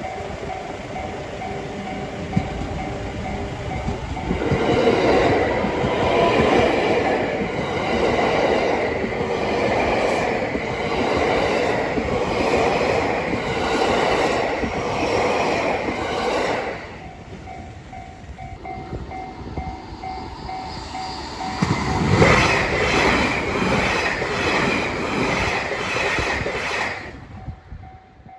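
Level crossing warning bell ringing while a JR Hanwa Line train passes over the crossing, its wheels clattering rhythmically over the rail joints. The bell rings on alone for a few seconds, then a second loud pass of rail-joint clatter starts about 22 seconds in.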